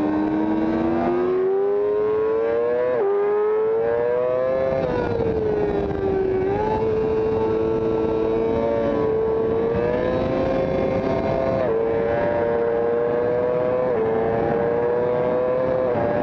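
Racing motorcycle engine heard from on board the bike at speed, over a steady rush of wind. The engine note climbs and drops sharply at each upshift, about three seconds in, near the middle and twice toward the end, and falls away once for a corner about five seconds in.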